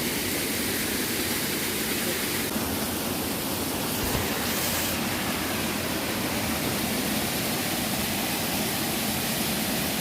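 Small waterfall rushing steadily, its flow low in the dry season.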